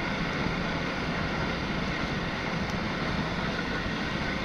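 Vehicle engine running steadily while riding an off-road trail, mixed with wind rumble on the microphone.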